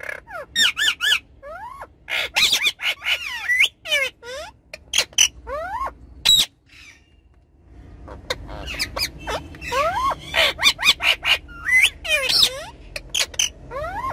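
Ringneck parrots calling: fast runs of short calls, many gliding up or down in pitch, with a brief lull about halfway through. A low steady rumble sits under the calls in the second half.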